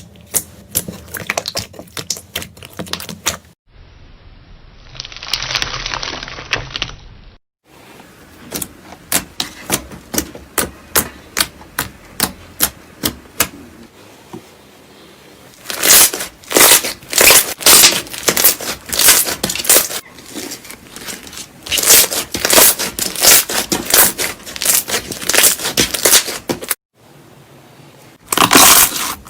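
Slime being squeezed and pressed by hand, giving sharp clicking pops and crackles as air pockets burst. The pops come sometimes evenly at about two a second and sometimes in fast runs. The sound is made up of several short clips that cut abruptly one into the next.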